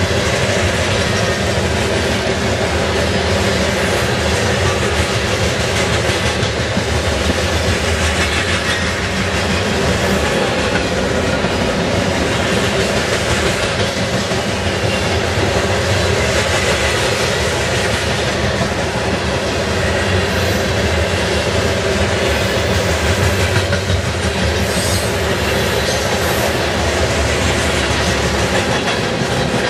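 A long freight train of covered hopper cars passing close by at speed: steel wheels running on the rails in a steady, loud noise.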